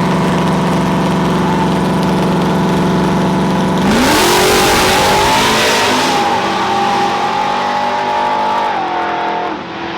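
Race truck's engine held at steady revs, then revving up sharply about four seconds in with a burst of rushing noise, running at high revs and dropping back near the end.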